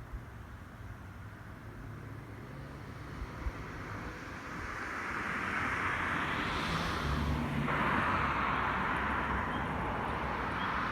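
Noise of a passing vehicle, swelling from about four seconds in and staying loud to the end.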